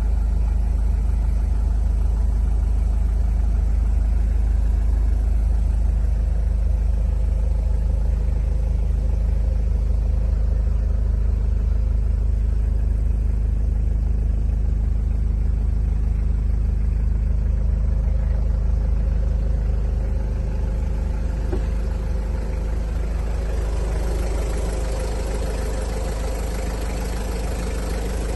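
A Toyota Hiace's turbo diesel engine idling steadily.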